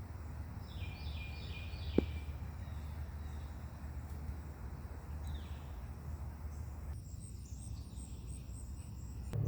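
Outdoor ambience with birds calling: a quick run of four falling chirps about a second in, a single call about five seconds in, and fast high chirping near the end, over a steady low rumble. A single sharp click about two seconds in.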